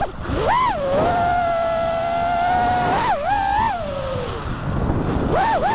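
FPV racing quadcopter's motors whining, the pitch swooping up and down with throttle punches, holding a steady tone for a couple of seconds, then blipping again near the end.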